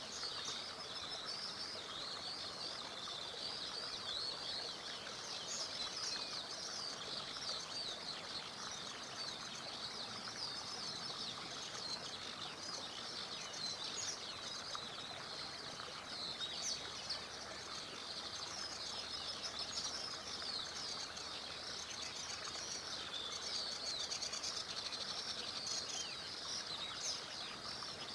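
A chorus of songbirds chirping and trilling continuously, many short high calls overlapping, over a steady rush of a small river.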